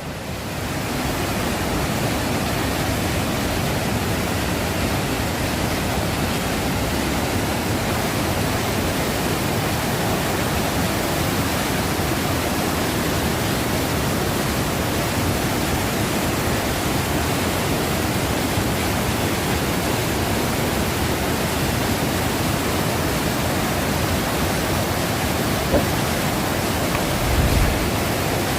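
Waterfall at Bad Gastein: falling water rushing in a steady, unbroken roar with no change in level.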